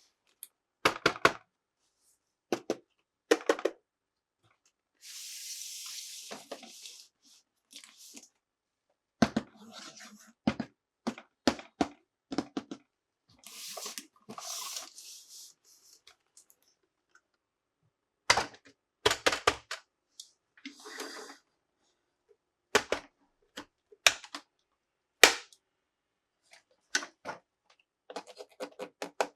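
Plastic toy parts and packaging being handled: clusters of sharp plastic clicks and knocks, with two short stretches of crinkly rustling from the packaging.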